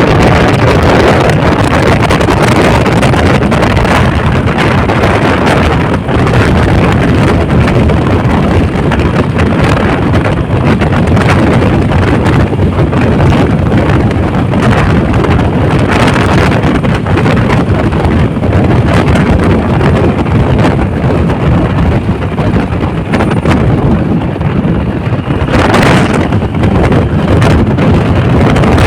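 Wind rushing over the microphone of a moving bike, a loud, steady noise that swells briefly near the end.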